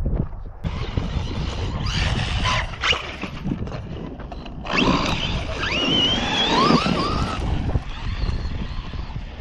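The electric motor of a Traxxas Rustler 4x4 RC truck whining, its pitch climbing and dipping with the throttle a few seconds in. Under it are a loud hiss, most likely tyres on loose dirt and gravel, and a low wind rumble on the microphone.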